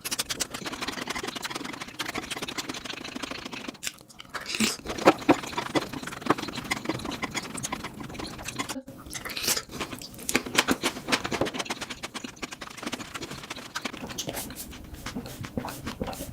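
Close-miked mouth sounds of a person eating spicy fire noodles: steady chewing with many quick wet clicks and smacks, cut off briefly about halfway through.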